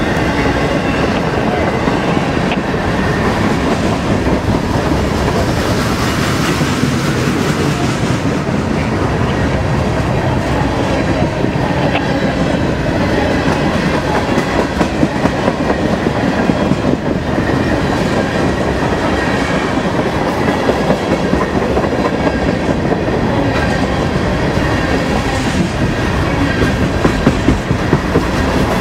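CSX freight train's cars rolling past, loud and steady, with steel wheels clacking over the rail joints.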